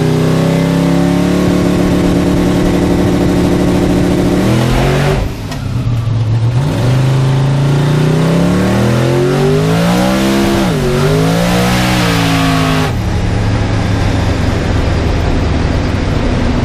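Turbocharged LS V8 of a Chevy II Nova drag car, heard inside the cabin. It holds steady high revs, then climbs in pitch under full throttle, with a quick drop and recovery in pitch about 11 seconds in, typical of the automatic shift firing. About 13 seconds in the throttle comes off and the engine settles to lower, steady running.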